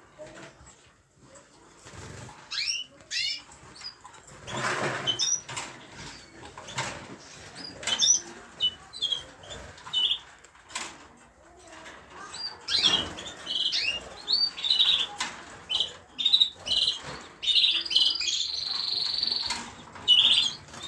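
Small pet cage birds chirping and twittering in short, high calls, with a sustained high trill near the end. Two rustling bursts of wing flapping come about 5 and 13 seconds in.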